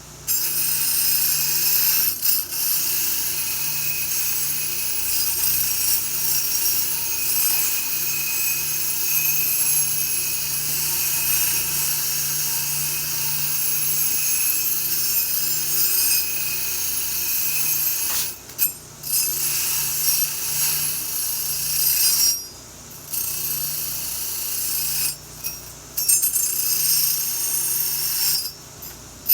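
A handheld power tool running steadily with a high, hissy sound, stopping and restarting briefly a few times in the last third.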